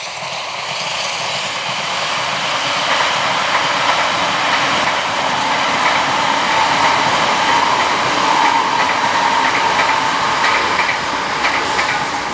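A Great Western Railway Hitachi intercity express train passing, building up over the first few seconds and holding strong as the coaches go by, with a run of wheel clicks over the rail joints. It eases off right at the end as the last coach goes past.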